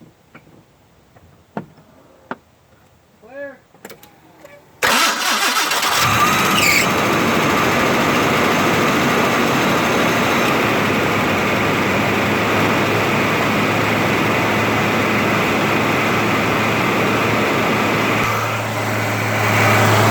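A 1988 Ford Ranger's engine starts suddenly about five seconds in and then runs loudly and steadily, the freshly rebuilt power steering pump under test, with a grinding noise that the owner puts down to the AC compressor. A few faint clicks come before the start, and near the end the sound dips briefly before a steady low hum comes up.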